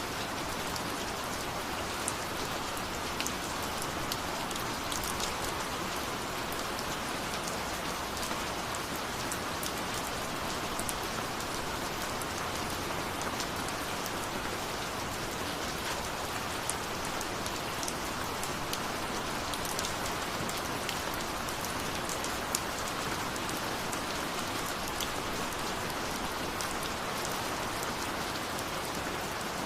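Steady rain falling on a surface, an even hiss with many small sharp drop ticks scattered through it.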